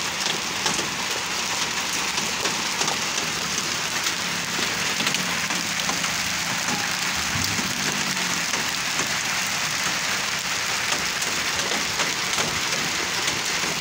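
Heavy rain falling: a steady hiss made up of many fine drop hits, even throughout.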